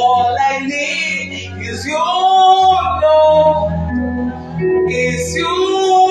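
Male and female voices singing a slow worship song over instrumental backing, with long held notes.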